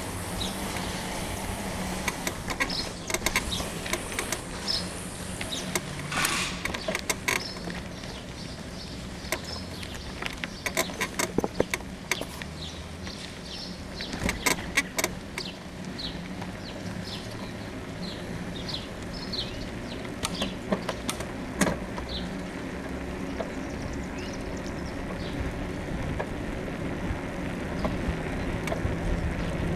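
Rear suspension of a bicycle frame creaking while riding: irregular short high squeaks and clicks, over steady road and wind noise. The rider thinks a worn suspension bushing in the frame is the cause.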